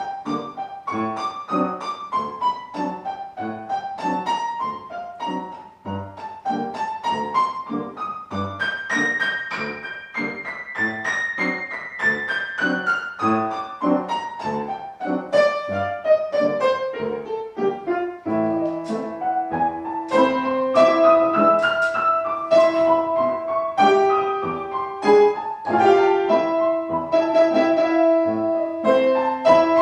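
Classical piano music: quick repeated notes and rising and falling runs, with some notes held longer in the second half.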